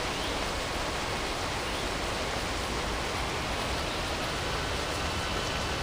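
Jet airliner taking off in heavy rain: a steady rushing noise of engines and rain, with a faint high whine that rises slightly near the end.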